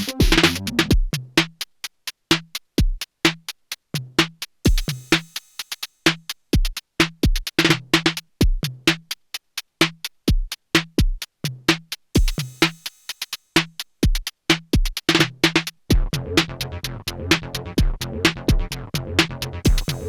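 Erica Synths Perkons HD-01 analog drum machine playing an acid-techno pattern at 128 bpm: a stripped-back section of sharp hits and short pitched drum hits, with the full groove and deep kick drum coming back in about four seconds before the end.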